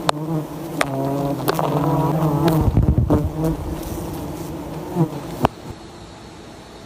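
Bees buzzing in a loud, steady droning hum, with a few sharp knocks; about two-thirds of the way through it drops abruptly to a much quieter hum.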